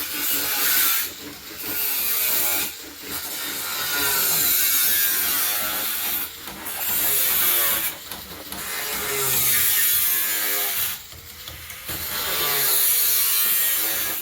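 Wood being worked with a tool in repeated strokes, each lasting one to three seconds with short pauses between.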